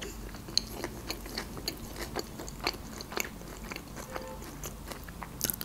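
Close-up chewing of Caesar salad with lettuce: many short, crisp crunches and clicks at an irregular pace.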